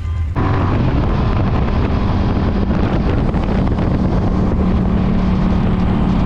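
Engine running loud and steady, with wind buffeting the microphone; it starts abruptly, as if cut in.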